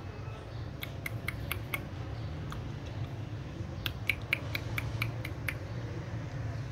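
A series of short, sharp clicks in two clusters, about a second in and again around four to five seconds in, over a steady low hum.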